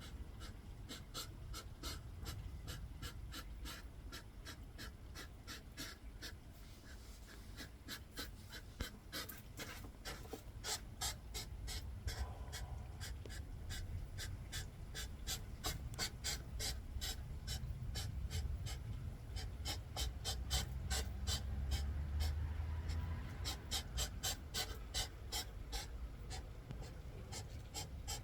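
Hedgehogs huffing in a territorial fight: a rapid, uneven train of short puffs, several a second.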